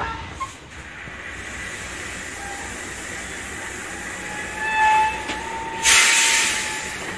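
Passenger train coach rolling to a stop, heard from inside: a steady rumble, thin high squealing tones from the brakes about four and a half seconds in, then a loud burst of air hissing from the air brakes for about a second.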